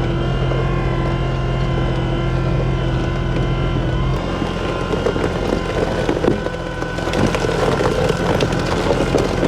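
Diesel engine of a JCB loader running while the machine is driven. The engine note changes about four seconds in, and clattering and knocks join it.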